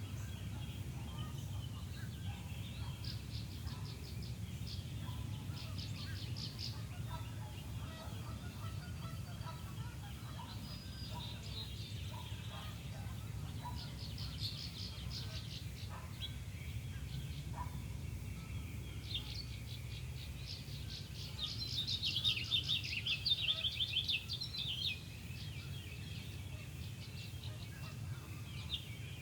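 Songbirds singing in a spring dawn chorus, in repeated fast-note trilling phrases with the loudest, longest stretch about two thirds of the way in, over a steady low rumble.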